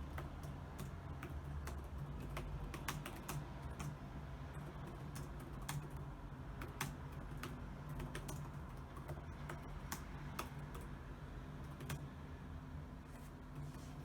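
Typing on a computer keyboard: irregular key clicks at an uneven pace, with short pauses, over a low steady hum.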